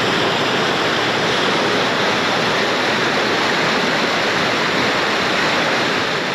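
Waterfall: a loud, steady rush of falling water that begins to fade near the end.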